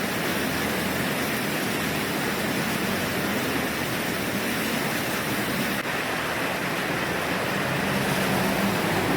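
A steady, even rushing noise with no clear source. A low motor hum comes in near the end.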